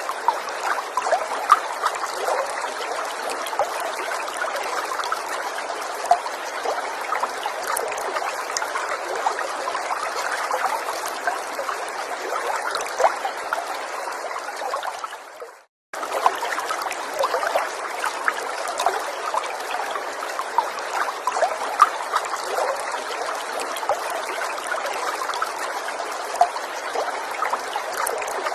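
Small stream trickling and babbling steadily over stones, with many small splashes. About halfway through, the sound fades and cuts to silence for a moment, then comes straight back: a loop join in the recording.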